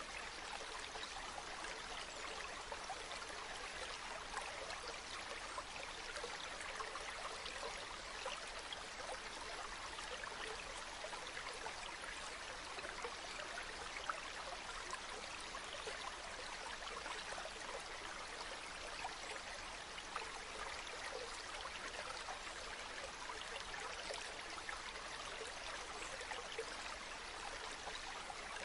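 Waterfall: falling and splashing water making a steady rushing noise, flecked with small splashes and droplets.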